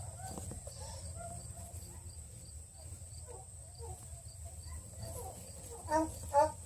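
Young beagle puppies, two and a half weeks old, squeaking and whimpering faintly, with two louder squeals close together about six seconds in.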